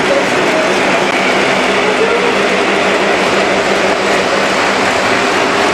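Electric toy train running continuously, with a steady whir of its motor and wheels.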